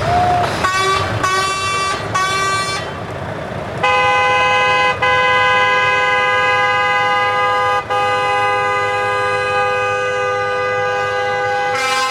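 Truck air horns. Three short blasts come first, then a long multi-tone chord horn is held for about eight seconds, breaking off briefly twice, with a truck engine running underneath.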